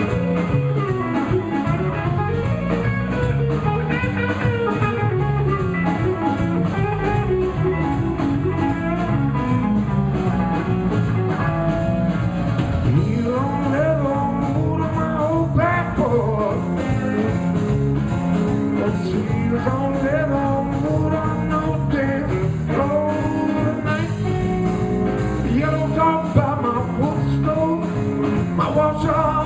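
Live blues band playing, an electric guitar lead with bending notes over the drums.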